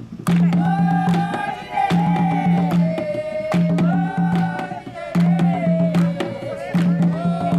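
Jongo drumming with a sung melody. Hand strokes on the drums give a deep ringing note that comes back in short groups about every second and a half, under a voice holding and bending long sung notes.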